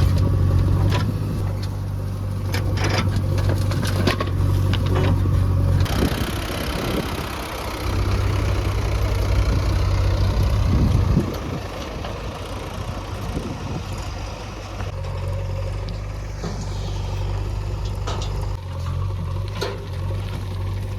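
Heavy diesel machinery engine running at work, its note changing and dipping a few times. Scattered metallic clanks and knocks come over it, mostly in the first several seconds and again near the end.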